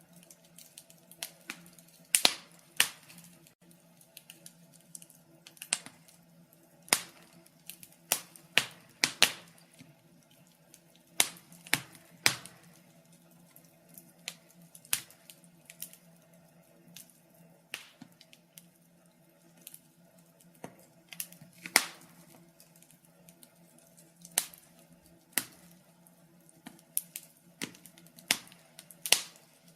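Fire crackling: irregular sharp pops and snaps, about one a second and sometimes several in quick succession, over a faint steady low hum.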